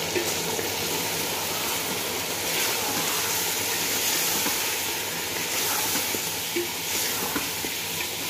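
Chicken pieces and spice paste sizzling steadily in hot oil in a metal pot while being stirred and fried down, with a slotted spatula scraping and tapping against the pot now and then.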